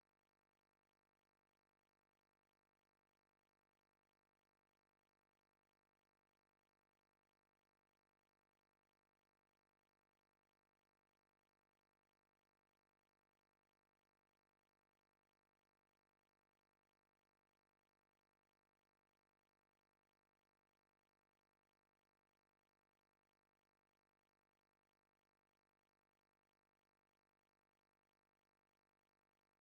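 Near silence: a flat, essentially empty audio track.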